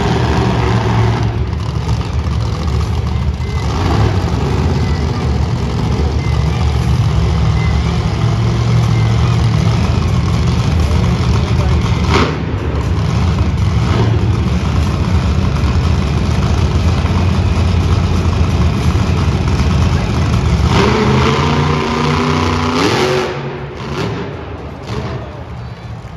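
Monster truck engine running loud and heavy, with a sharp bang about twelve seconds in and a rising rev near the end before the sound drops away.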